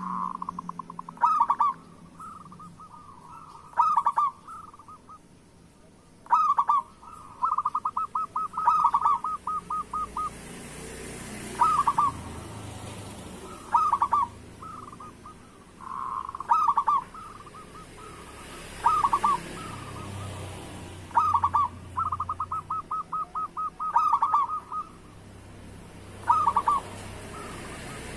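Zebra dove (perkutut) cooing: short phrases of rapid rolling notes, repeated every two to three seconds, some running on into longer quick-fire trills.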